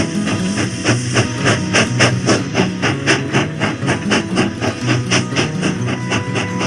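Steam locomotive exhaust chuffing at a fast, even rhythm of about five beats a second, mixed with music.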